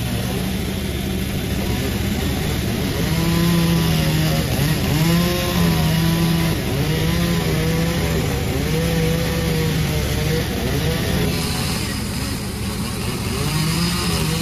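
Panda36 two-stroke chainsaw running under load while sawing jackfruit wood into beams. Its engine note wavers and dips slightly now and then, and softens briefly near the end before picking back up.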